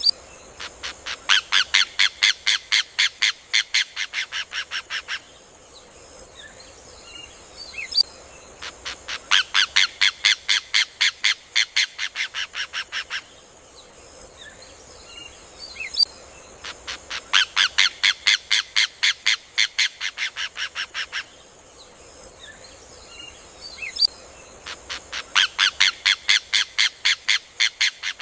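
Rufous hornero (João-de-barro) song: a loud, rapid run of sharp notes that speeds up, then slows and fades over about four seconds, coming four times at even eight-second spacing. A steady high hiss and a few faint chirps lie underneath between the runs.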